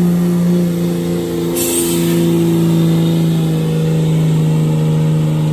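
Truck engine held at high, steady revs under load during a truck pull, with a brief hiss about a second and a half in.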